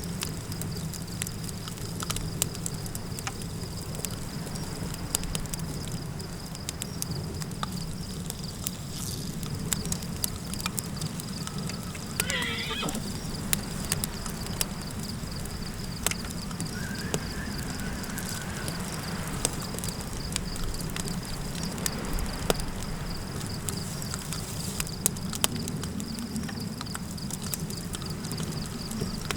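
Campfire crackling with scattered pops over a low steady wind rumble and a constant high insect trill. About twelve seconds in, a horse whinnies once, a shaky call falling steeply in pitch.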